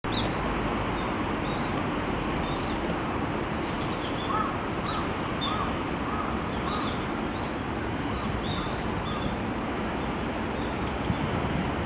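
A crow cawing in short arched calls, several in quick succession about two to three seconds in and more scattered later, over a steady rushing background noise.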